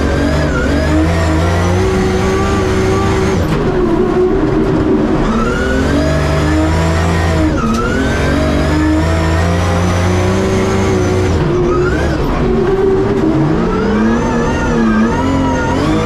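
The S14.9 drift car's 1000 hp 2JZ straight-six engine at high revs, heard from inside the cabin, its pitch climbing and falling again and again as the throttle is worked, with sharp drops in revs about 3.5, 7.5 and 11.5 seconds in.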